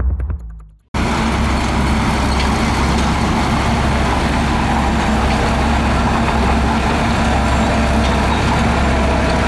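Tail of intro music fading out, then cut off just under a second in, followed by the steady running of a heavy earthmoving machine's diesel engine, a constant low hum with no change in speed.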